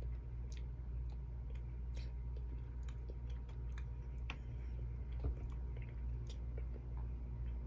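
A person chewing food with small wet mouth clicks, over a steady low hum. One louder knock comes about five seconds in.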